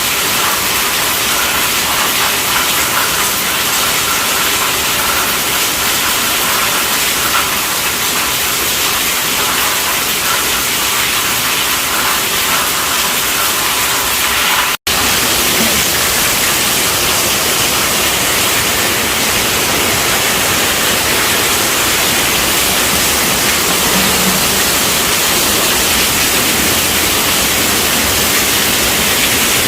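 Steady, heavy rainfall hiss. It drops out for a split second about halfway, then resumes more even and fuller, close to a static-like hiss.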